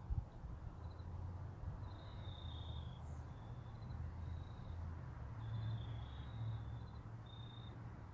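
A bird's short, high two-note chirps repeat irregularly over a steady low rumble. The sound is quiet.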